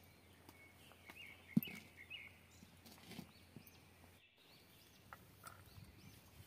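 Quiet outdoor ambience with small birds chirping, and a single sharp knock about one and a half seconds in.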